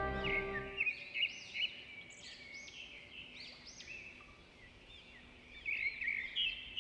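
Small birds chirping in quick, repeated short calls. Soft background music fades out within the first second.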